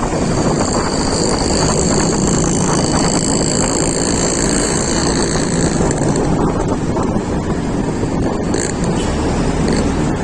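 Wind buffeting the microphone over the steady road and engine noise of a moving vehicle, with a high whine that fades out about six seconds in.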